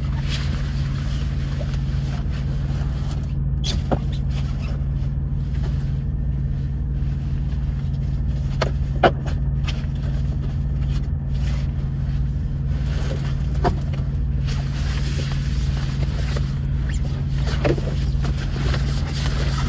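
Semi truck's diesel engine idling, a steady low drone heard from inside the cab, with a few light clicks and rustles over it.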